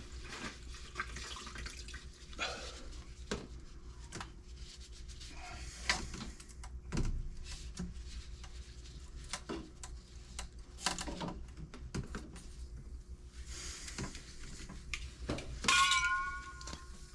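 Scattered clicks, knocks and clinks of tools and plumbing parts being handled during plumbing work, with a short squeak near the end.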